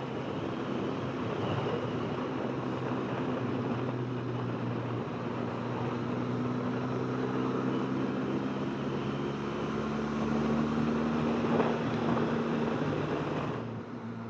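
Benelli TRK 502X motorcycle's parallel-twin engine pulling steadily under way, with wind and road rush over it. The engine note climbs gradually, then the level drops shortly before the end as the throttle comes off.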